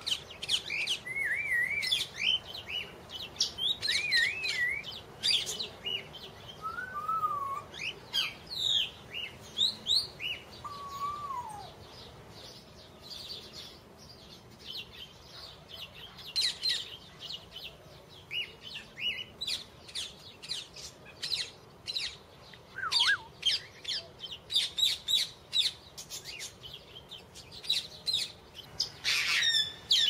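Small birds chirping and whistling: quick sharp chirps mixed with whistled notes that slide up and down in pitch, thinning out for a few seconds near the middle and coming thick and fast in the last third.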